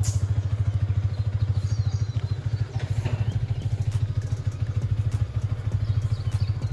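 Motorcycle engine idling with a steady, even low throb.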